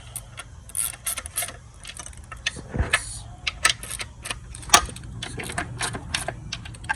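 Hand ratchet clicking in short irregular runs, with metallic clinks and a couple of sharper knocks, as bolts are worked on the engine's upper intake.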